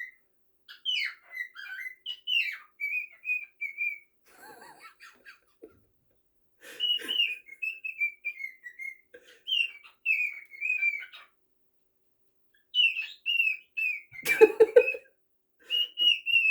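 Pet bird whistling and chirping in a run of gliding, warbling phrases with short pauses, and a louder, harsher burst about fourteen seconds in.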